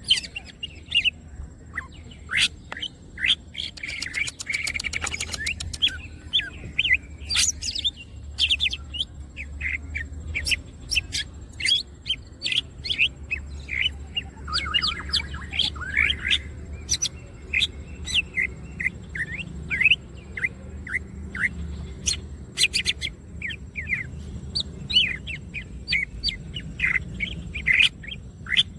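Green leafbird (cucak ijo) singing a fast, varied run of sharp chirps and whistles, with a rapid buzzy trill about four seconds in.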